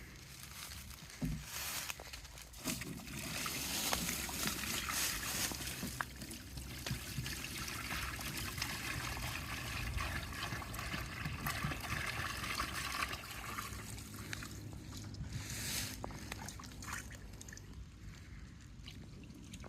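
Water trickling and sloshing, a rough irregular wash that is strongest in the middle and eases off near the end.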